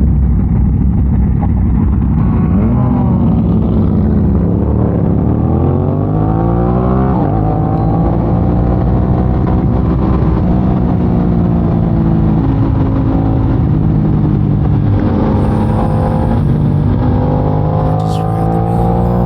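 Aprilia RS 660's parallel-twin engine pulling hard under throttle, its pitch climbing and then dropping sharply at an upshift about seven seconds in, with further shifts later and another climb near the end, over steady wind rush.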